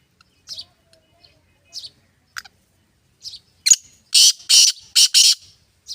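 Black francolin calling: a loud, harsh call of four or five grating notes in quick succession a little past the middle, after a few fainter short high chirps.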